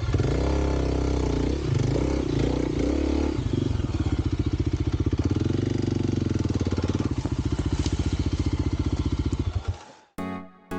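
Kawasaki KLX300 single-cylinder four-stroke dirt bike engine revving up and down, then running at a steady, even chug for several seconds before it stops near the end. Music begins right after.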